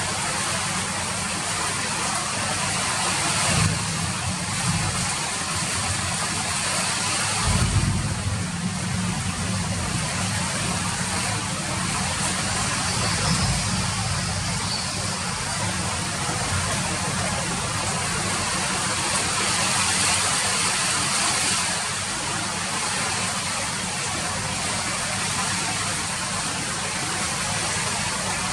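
Steady rain falling, an even hiss of drops. A few short low rumbles rise above it about 4, 8 and 13 seconds in.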